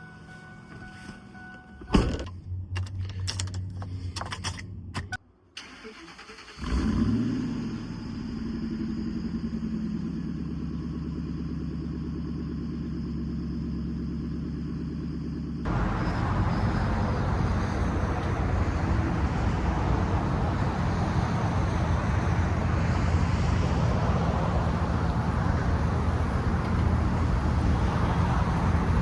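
A vehicle engine starts: a few clicks, then it catches about seven seconds in with a brief rev that settles into a steady idle. About sixteen seconds in the sound changes abruptly to a louder, rougher engine noise.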